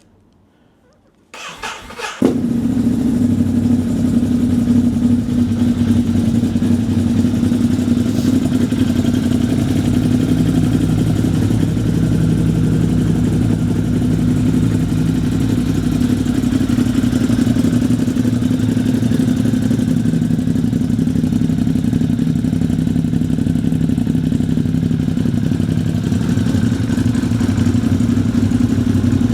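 Ducati Hypermotard 950's 937 cc L-twin engine, breathing through a full Termignoni exhaust system, cranking on the electric starter a little over a second in and catching about two seconds in, then idling steadily.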